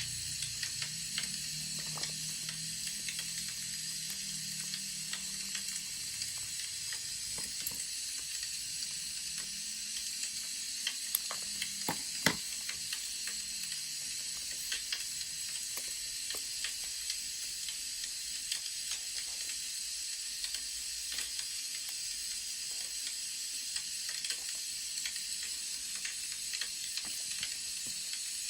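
Wood fire crackling: a steady hiss with frequent small pops and snaps, one sharper pop about twelve seconds in.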